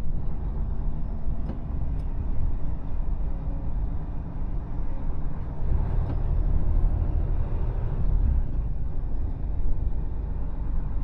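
Mercedes Actros truck's diesel engine and road noise while driving, a steady low rumble that swells a little from about six to eight seconds in.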